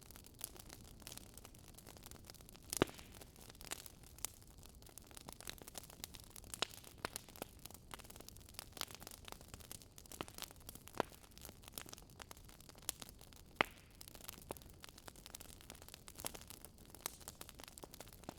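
Firewood burning in a campfire, crackling with irregular sharp pops over a faint hiss.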